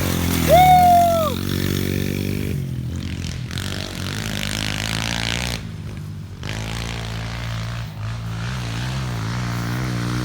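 Small 110cc four-stroke single-cylinder pit bike engine running at a fairly steady low speed, its pitch wavering slightly in the second half.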